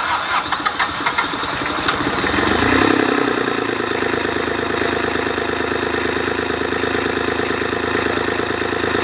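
Kubota D905 three-cylinder diesel engine cranked by its starter in a string of even pulses, catching after about two seconds. It picks up speed briefly and then settles into a steady run. This is an engine known for hard starting and due for reconditioning.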